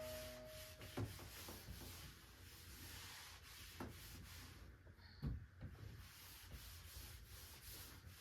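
Faint, steady rubbing noise with three soft knocks: about a second in, near four seconds, and the loudest just past five seconds.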